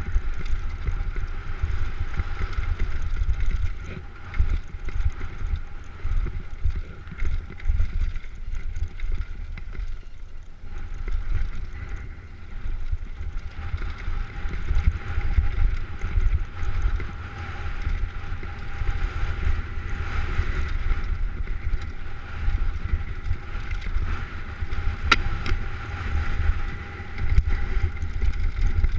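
Wind buffeting the microphone during a fast downhill ride, a continuous gusty rumble, with a faint steady whine underneath and a single sharp click near the end.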